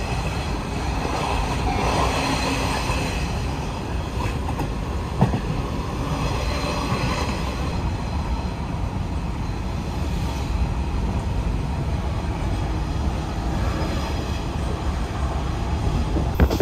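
Shinano Railway's Rokumon, a converted 115-series electric train, running along the line, heard from inside the passenger car: a steady rumble of wheels on rails, with one sharp knock about five seconds in.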